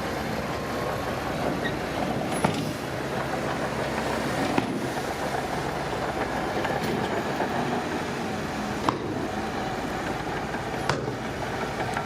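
Heavy diesel construction machinery running steadily, with a few sharp metallic knocks about two to four seconds apart.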